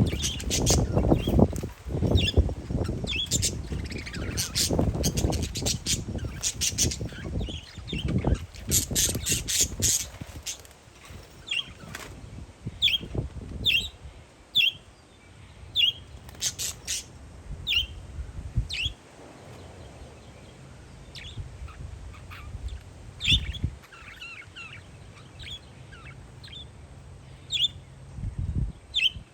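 Parakeets chirping repeatedly in short high calls. Wind buffets the microphone with a gusty rumble through the first third, and a faint low steady drone comes in around halfway.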